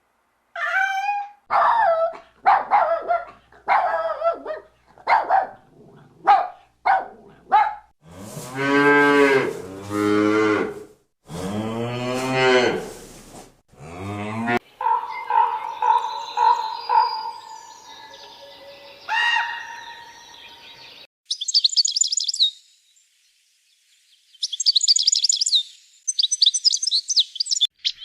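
A succession of different animal calls: short repeated calls, then two long, low drawn-out calls, then a stretch of pulsing calls over a steady tone, ending with high bird chirps.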